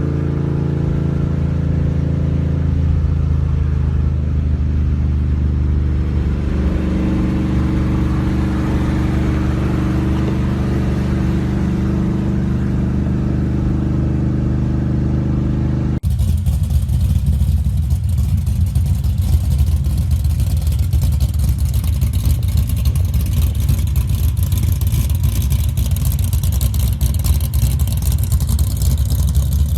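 Car engines running. A steady, even idle for about the first half, then an abrupt switch to a louder, rougher engine with an uneven, lumpy note.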